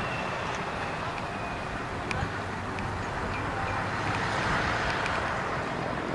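Steady outdoor rumble of truck traffic at a moderate level, with no single engine standing out and a few faint ticks.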